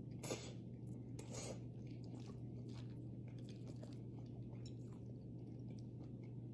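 Close-miked mukbang eating: two loud mouthfuls in the first second and a half, then steady chewing with many small clicks. A low steady hum runs underneath.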